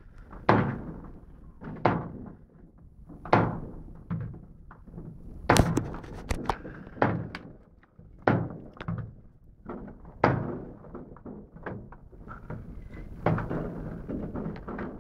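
Fireworks rockets bursting: a string of sharp bangs, each trailing off in a rumbling echo, about one every one to two seconds, with smaller cracks in between.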